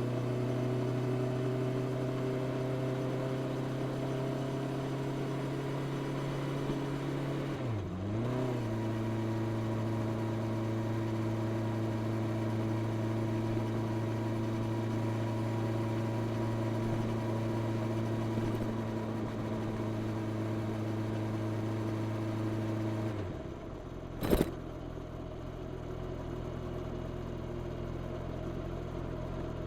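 Honda CB650R's four-cylinder engine, stock exhaust, pulling at a steady pitch on the road. About eight seconds in the note dips briefly and picks up again, as in a gear change. Near the end the throttle closes and the engine drops to a lower, quieter note, with one sharp click.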